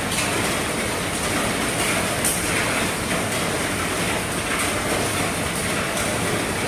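Heavy rain falling on the roof of an RV: a steady, dense patter, with a few sharper drop hits standing out.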